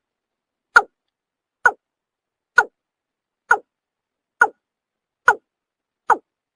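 Watercock (kora) call: short hollow notes, each falling in pitch, repeated steadily a little more than once a second, seven in all, with dead silence between. This is the recorded call played as a lure for trapping.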